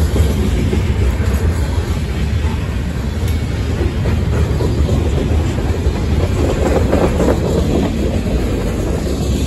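Freight train of covered hopper cars and tank cars rolling past, a steady loud rumble of steel wheels on the rails.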